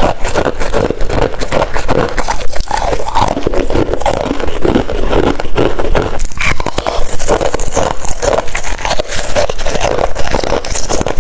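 Crunching and chewing of hard freezer frost scraped from a freezer's edges: a dense, continuous run of crackling crunches.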